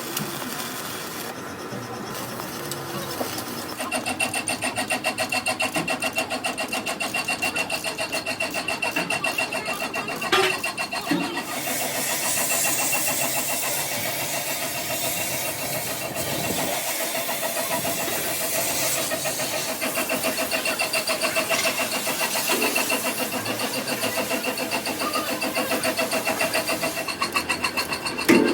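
Engine running steadily with a fast, even pulse, getting louder about four seconds in, with a single sharp knock about ten seconds in.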